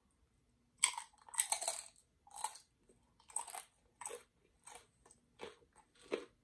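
A queso-dipped tortilla chip bitten with a loud crunch about a second in, then chewed with crisp crunches about every two-thirds of a second.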